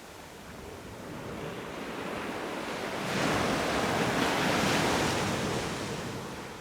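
Sea waves breaking on a beach: the surf swells, one wave crashes and washes loudly for about two seconds around the middle, then dies away as the water draws back.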